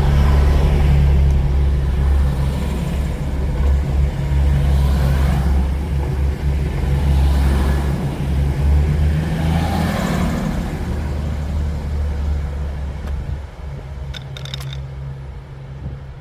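Class 222 Meridian diesel multiple unit running past, its underfloor diesel engines droning steadily under the rumble of wheels on rail, with the noise swelling and falling as the coaches go by. The sound dies away over the last few seconds as the train leaves.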